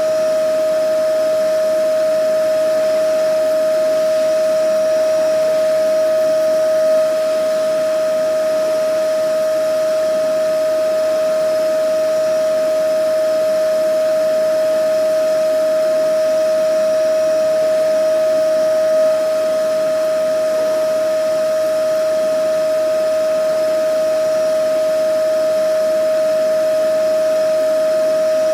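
Vacuum cleaner running steadily: a constant high motor whine over a rushing hiss, never changing speed.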